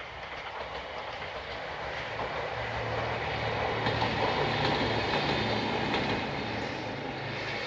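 Train passing on a single-track railway line, a steady rush of wheels and running gear over a low motor hum that grows louder towards the middle and then slowly fades.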